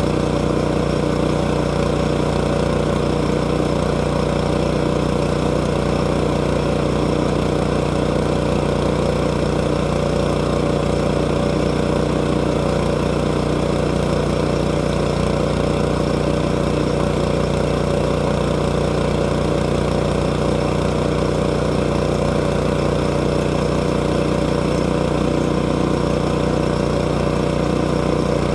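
Small engine of a sawmill running at a steady speed, its pitch and loudness unchanging throughout.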